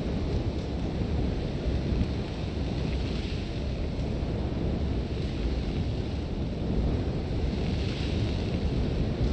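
Sandstorm wind blowing hard: a deep, steady rumble with a hiss of wind-blown sand that swells about three seconds in and again near the end.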